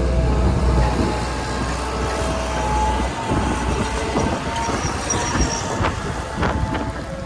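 Hitachi ZX160 crawler excavator on the move: its diesel engine runs under a thin, steady squeal, with metallic clanks at intervals from its steel tracks.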